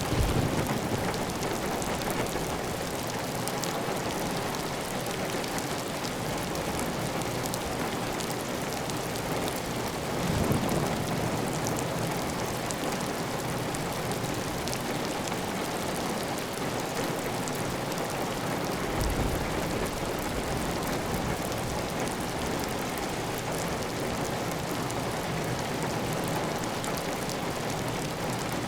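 Heavy, steady rain falling on a clay tile roof, with water running off the roof edge, as a dense, even patter. A couple of brief low swells break in about a third and two-thirds of the way through.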